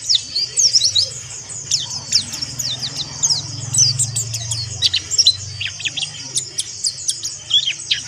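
Mountain white-eye (pleci monty) twittering: a fast, unbroken run of short, high chirps, each sliding downward in pitch. This is the coarse chattering call that pleci keepers call 'ngeriwik kasar'.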